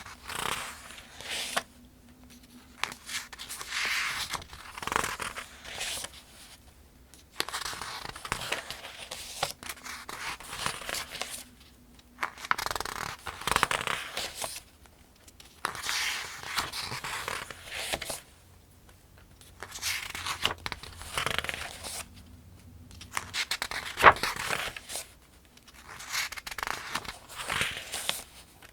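Pages of the 2025 Farmers' Almanac being turned one after another: paper rustling and flipping in a steady rhythm of about nine turns, with short pauses between them and a sharp paper snap about two-thirds of the way through.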